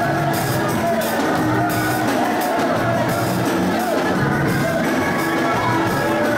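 Church worship music from a band: a steady loud mix with drums and wavering held melody lines.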